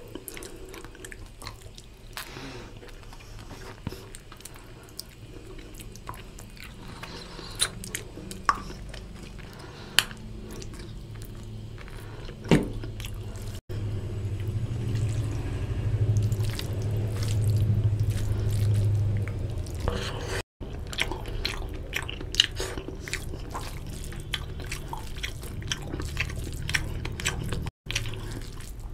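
Close-miked chewing of oily mutton curry and rice, with many sharp wet mouth clicks and smacks. Near the end comes the squish of rice being mixed with curry by hand.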